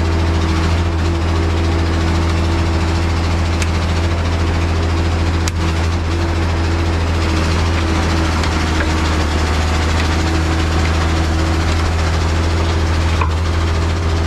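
Large diesel engine running steadily at a constant speed, a loud low drone.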